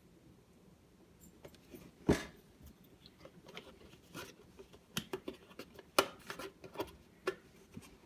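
Handling noises from oat milk containers: scattered light clicks and knocks, the sharpest about two seconds in and again about six seconds in.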